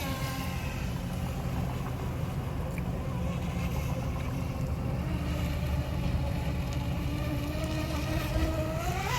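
High-speed remote-control speedboat's motor whining as the boat runs on the water, its pitch low and fairly steady, then climbing sharply near the end as it speeds up or comes closer. A steady low rumble runs underneath.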